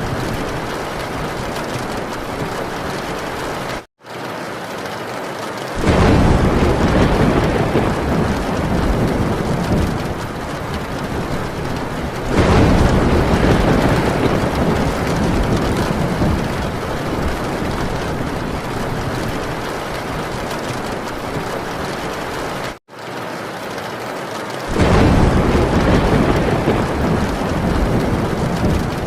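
Heavy rain pelting a tin roof in a steady hiss, with rolls of thunder rumbling in about six, twelve and twenty-five seconds in. The sound cuts out for an instant twice.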